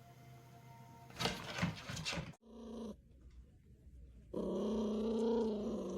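A dog vocalizing in one drawn-out, steady-pitched growl of about two seconds near the end, preceded by a brief noisy clatter about a second in.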